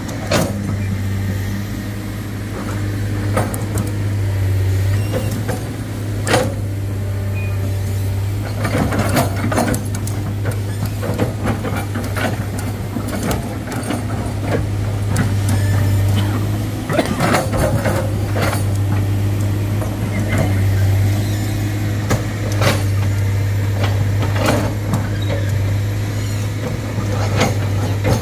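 Heavy diesel engine running steadily with a deep, even drone, broken by scattered sharp clanks and knocks.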